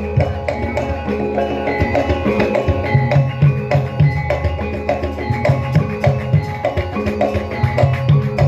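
Javanese gamelan ensemble playing dance music: kendang hand-drum strokes in a steady rhythm under repeating struck metal notes.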